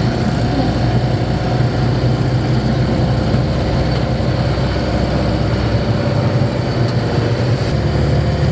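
Van engine and road noise heard from inside the cab while driving, a steady low drone. The engine is running on a freshly replaced timing belt.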